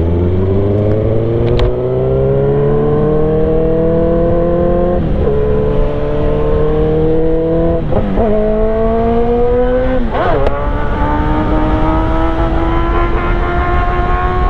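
Yamaha R1 inline-four engine accelerating hard, its pitch climbing through the gears with a quick drop at each of three upshifts, about five, eight and ten seconds in.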